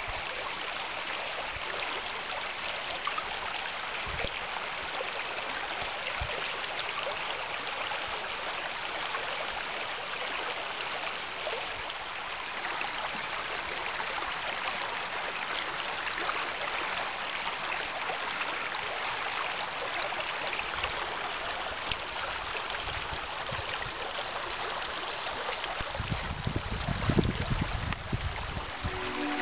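Small waterfall of spring meltwater, running low, with a steady rushing and splashing of water. Near the end there is a short low rumble.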